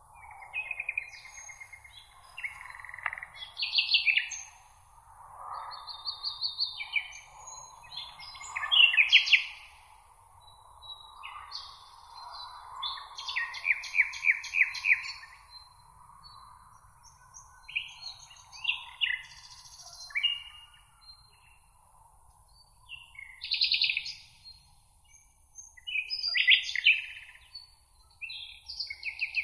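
Songbirds singing in a meadow: a string of short, varied phrases of chirps and fast trills, one after another with brief pauses, over a faint steady high hiss.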